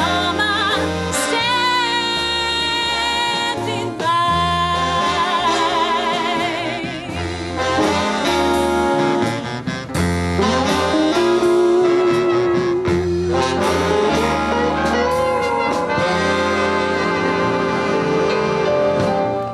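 Swing band music: a walking bass under brass and saxophone playing held melody notes with vibrato.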